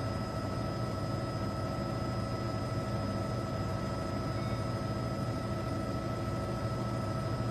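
Steady engine drone inside an aircraft cabin, with several held tones over a constant rushing noise.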